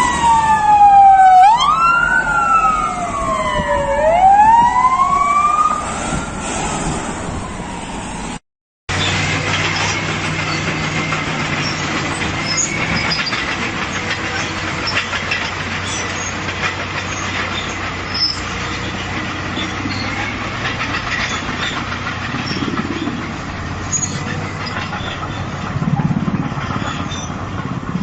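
Emergency vehicle sirens wailing, two or more overlapping and rising and falling in pitch, for about the first six seconds. After a brief cut, steady vehicle engine and road rumble runs on with no siren.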